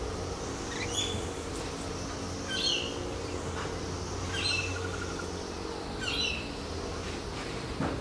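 Noisy miners calling: a few short calls spaced a second or two apart, over a steady low hum.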